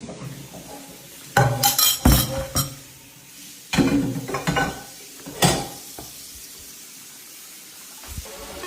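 Hard objects clattering and knocking in three short bursts, the last a single sharp knock, followed by a soft dull thump near the end.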